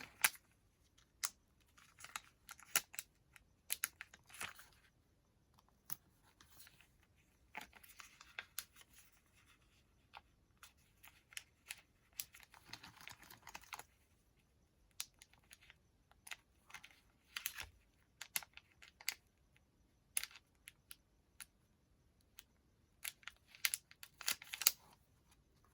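Paper being handled during handmade journal work: scattered light taps and clicks with a few short rustles of paper.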